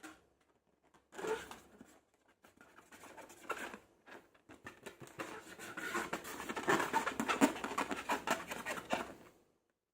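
Slime being squeezed and worked by hand, a dense run of sticky crackles and small pops. It starts about a second in, grows louder toward the middle and fades out just before the end.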